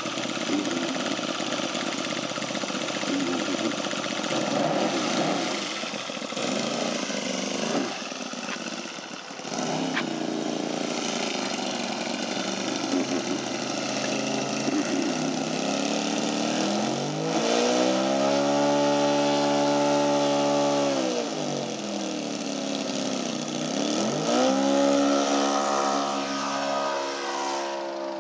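Laser 200V four-stroke V-twin glow engine of a large RC biplane running without a silencer, its pitch climbing as the throttle is opened and falling back as it is eased off, twice in the second half.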